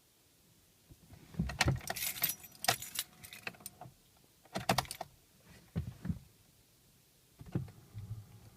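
Car keys jangling and clicking in several short bursts, the longest from about one and a half to three and a half seconds in, with shorter ones near five and six seconds and near the end.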